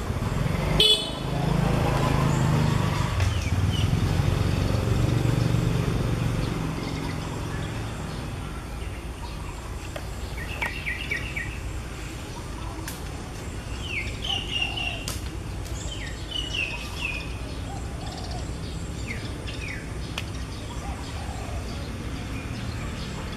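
Small birds chirping in short runs of quick high notes, some sliding downward, from about ten seconds in. The loudest part is earlier: a low droning rumble, with a sharp click about a second in, that fades out after about six seconds.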